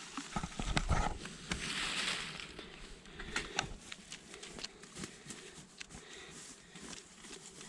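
Light rustling with scattered small clicks and snaps, and a soft rushing hiss that swells about two seconds in.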